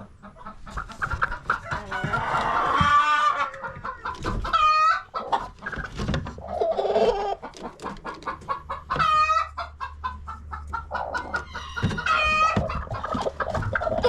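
A flock of chickens clucking, with three loud pitched calls standing out over the clucking.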